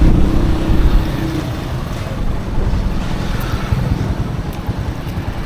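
Street traffic with a small motor vehicle's engine passing and fading out after about a second and a half. Wind buffets the microphone with a loud low rumble.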